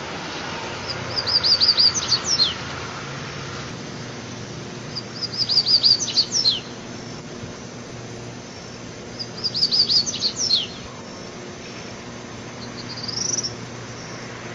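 A songbird singing three short phrases about four seconds apart, each a quick run of high repeated notes ending in a few falling whistles, then a brief upward-sliding note near the end. A steady low background hiss runs underneath.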